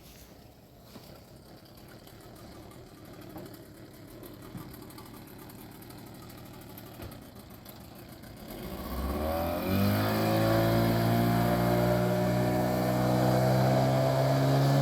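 Faint wind and water noise, then about eight seconds in an engine comes up to speed, rising in pitch, and settles into a loud, steady run.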